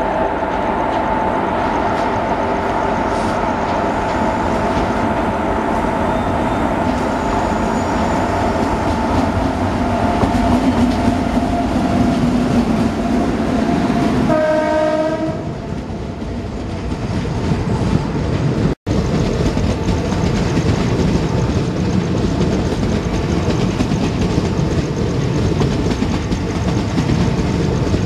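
Indian Railways WAP-7 electric locomotive hauling an express train approaches with steady tones and sounds a short horn blast as it passes, about halfway through. Its coaches then rattle past with clickety-clack over the rail joints, with a momentary cut in the sound a few seconds later.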